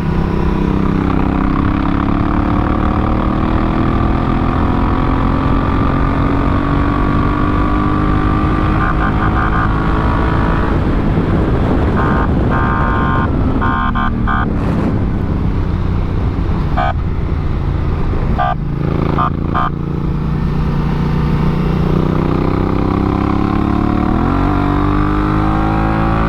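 Honda Africa Twin CRF1000L's parallel-twin engine running hard under way, its DCT gearbox shifting by itself: the engine pitch climbs slowly, drops sharply about ten seconds in as the bike slows, then climbs again. Short bursts of high-pitched tones come in between about nine and twenty seconds in.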